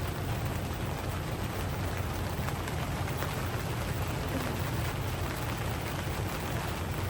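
Steady rain falling, a continuous hiss flecked with many small drop ticks.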